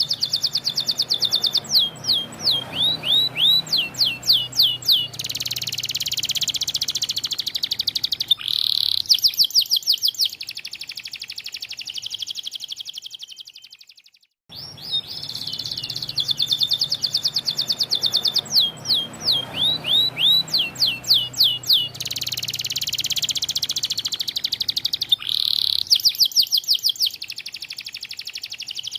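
White domestic canary singing a long song of fast rolling trills and quick swept notes. The same passage of about 14 seconds plays twice, with a brief break between: a looped recording.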